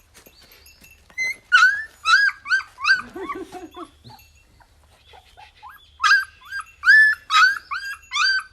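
Newborn Kishu puppies squealing and whimpering in short, high-pitched cries, one after another. The cries come in two bouts, from about a second in and again from about six seconds in, with a few lower cries around three seconds.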